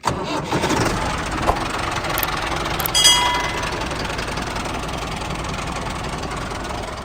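A machine running with a steady, noisy mechanical drone, and a short whistle-like tone about three seconds in.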